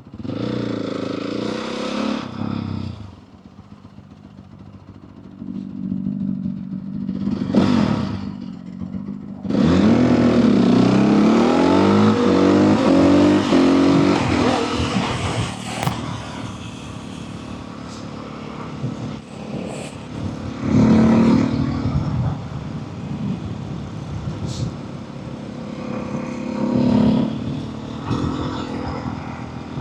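Motorcycle engine on the move, its pitch climbing repeatedly as it accelerates hard about ten seconds in, the loudest part. It then runs more evenly, with shorter surges of throttle.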